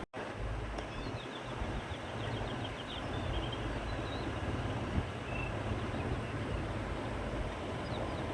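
Wind blowing across open country, a steady rush with a low rumble, while small birds chirp faintly and briefly, mostly a few seconds in. The sound drops out for a moment right at the start.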